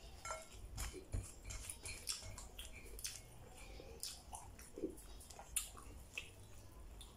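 A man chewing mouthfuls of rice and fish eaten by hand, with faint, irregular mouth smacks and clicks and light taps of fingers on a plate.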